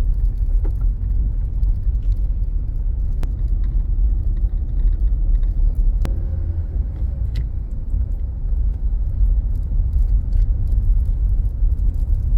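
Steady low rumble of a car's road and engine noise heard from inside the cabin while driving, with two faint clicks about three and six seconds in.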